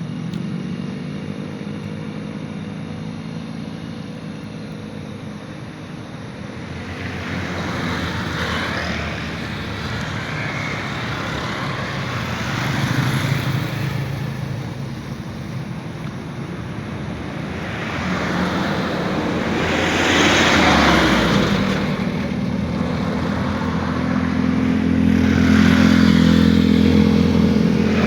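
Steady low engine drone with vehicles passing close by several times, each swelling and fading over a couple of seconds; the hum grows louder in the second half.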